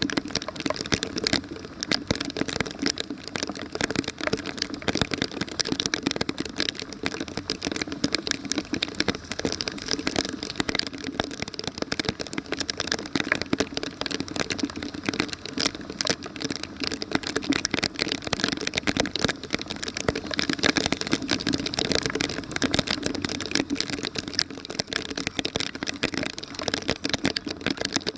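Heavy rain and storm water: a steady, dense crackle of raindrops close by, unchanged throughout.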